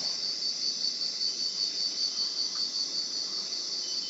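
Night-time chorus of rainforest insects: a steady, high, evenly pulsing trill with a hiss of other insects behind it.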